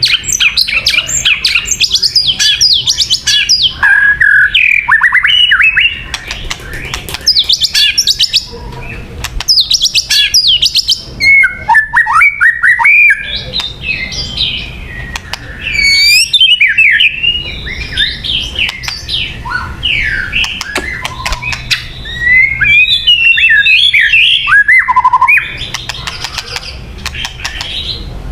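White-rumped shama singing a long, varied song of rich whistles, fast rising and falling trills and chattering notes, in loud phrases broken by short pauses.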